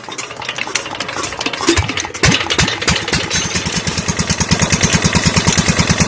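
A 12 hp Peter diesel tube-well engine starting. Uneven firing for about two seconds, then the pulses come faster and settle into a steady, even running beat.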